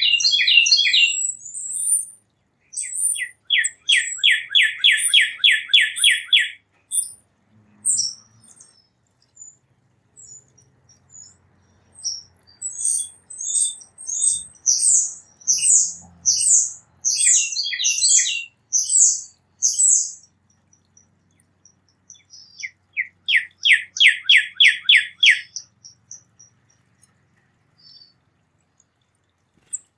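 Songbirds singing: a fast, even trill of repeated notes twice, with bursts of short, high chirps in between.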